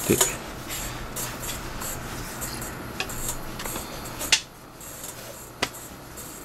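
Rawhide leather lace being drawn through the lacing holes of a catcher's mitt: scratchy leather-on-leather rubbing, with a few sharp snaps and clicks as the lace is tugged.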